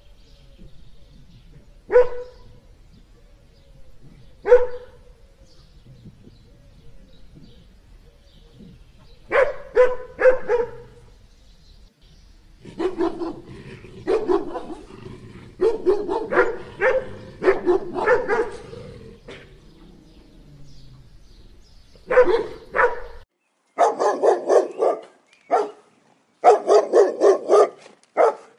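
A dog barking: two single barks a couple of seconds apart, then bursts of quick barks that come more and more often. Rapid strings of barks fill the last few seconds.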